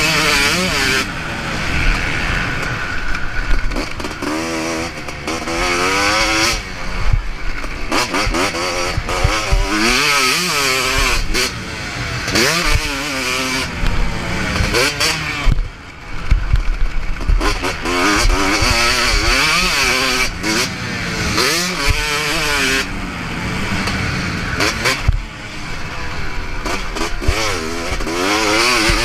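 Motocross bike engine revving hard on a track, its pitch climbing and dropping again and again as the throttle is opened and closed through gears and corners, with occasional sharp knocks.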